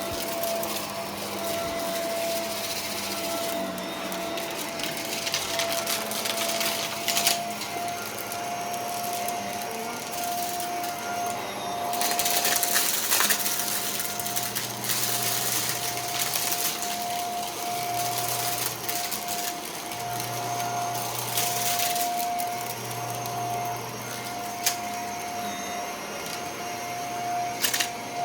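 Vacuum cleaner running steadily with a constant high motor whine and airflow rush, surging louder in several brief bursts as it is pushed through debris.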